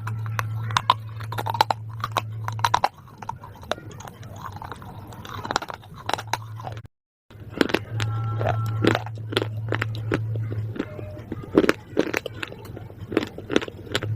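Crunchy food being bitten and chewed close to the microphone, with many sharp, irregular crunches over a steady low hum. The sound cuts out briefly about seven seconds in.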